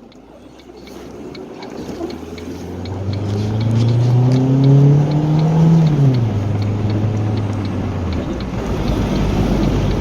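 A motor vehicle's engine, its pitch climbing for a few seconds, then dropping sharply about six seconds in. It runs at a lower steady pitch briefly, then gives way to a low rumble.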